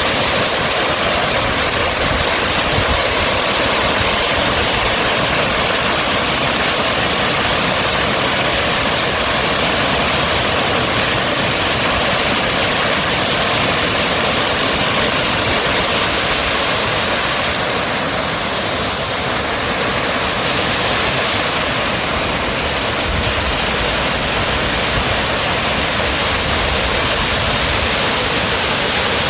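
Steady rushing noise like falling or flowing water, unbroken and even throughout.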